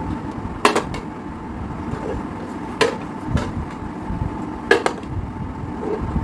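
Sharp knocks and clacks of plates and covers being handled and set down on a table, about six in all, coming in pairs about two seconds apart.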